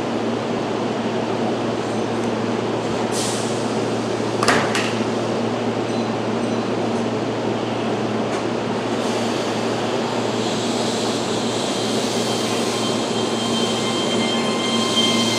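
Keihan 3000-series electric train standing at a platform with the steady hum of its onboard equipment. About three and four and a half seconds in there are two sharp knocks as the doors shut. From about ten seconds in, several steady high tones from the traction motors rise in level as the train starts to pull away.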